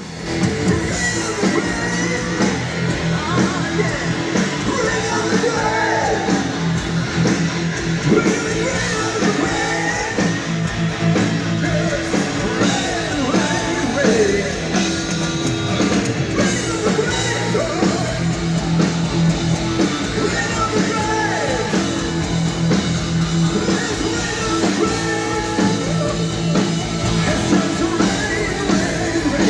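Heavy metal band playing live, a man singing with strained, yelling phrases over electric guitars and a steady low bass line.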